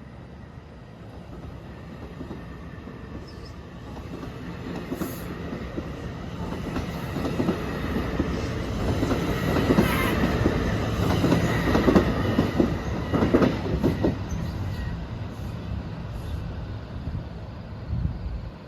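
A train passing by, its rumble building to a peak about midway with wheel clatter and clicks over the rail joints, then fading away.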